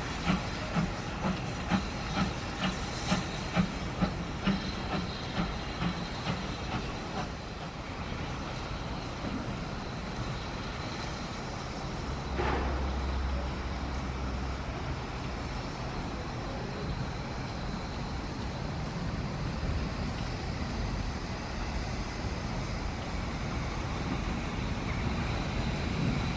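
Exhaust beats of an Ivatt 2MT steam locomotive, about two and a half a second, fading away over the first several seconds, then the steady rumble and hiss of the train running on the rails, with a brief falling tone about halfway through.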